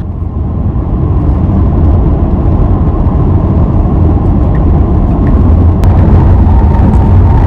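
Road noise of a Tesla Model Y on the move, a steady low rumble of tyres on the road surface, growing louder over the first couple of seconds as the car gathers speed.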